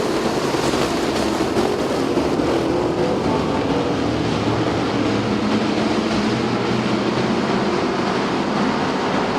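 A pack of street stock race cars' engines running hard on the track just after the green flag, blending into one steady, continuous engine noise.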